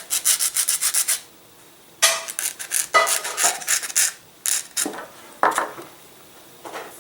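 Hand sanding a small laser-cut wooden locating pin to take off its burr: quick back-and-forth scratching strokes of sandpaper on wood, in several short runs with pauses between.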